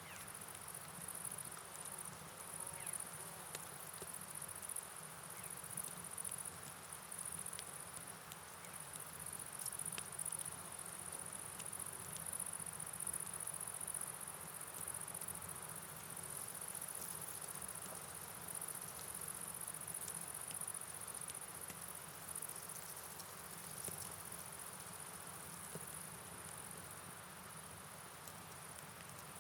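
Steady rain and flowing river water, with a continuous high-pitched insect chorus running over it and scattered faint ticks.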